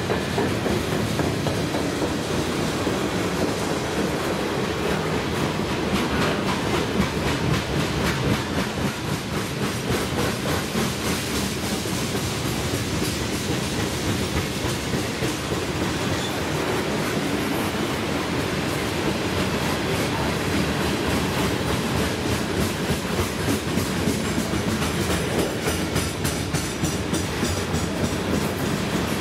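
Freight train cars rolling past: a steady rumble of steel wheels on rail with a rapid clickety-clack of wheels, in a mixed consist of tank cars, centerbeam lumber flatcars, hoppers and boxcars.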